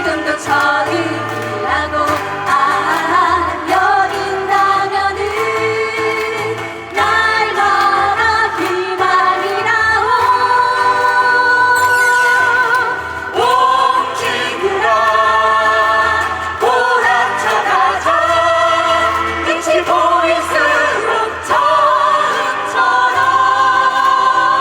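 Mixed choir singing a Korean protest song in unison and harmony, with keyboard and guitar accompaniment.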